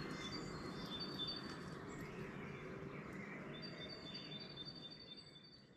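Dawn chorus of songbirds. High, thin repeated notes sound over a steady background of ambient noise, and everything fades out near the end.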